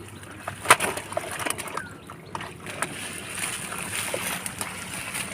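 Shallow water sloshing and splashing as someone moves through it by hand, with scattered knocks, a sharp one under a second in. A steady high-pitched tone runs in the background.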